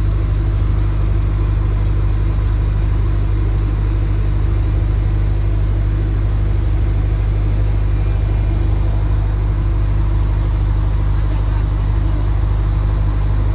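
Steady, unchanging low engine hum, like an idling motor.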